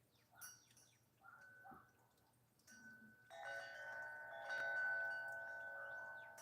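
Wind chimes ringing: a few scattered strikes at first, then several overlapping notes ringing on together through the second half.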